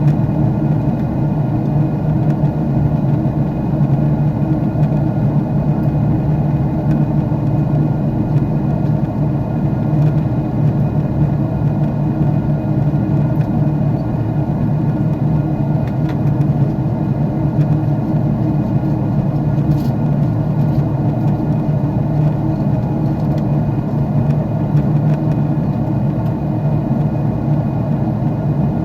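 Jet airliner engine noise heard inside the passenger cabin in flight: a steady, unchanging low drone with a faint whine of steady tones above it.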